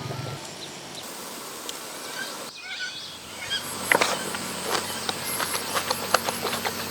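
Outdoor ambience with insects chirping high and pulsing, then a run of sharp, irregular clicks and taps from about four seconds in.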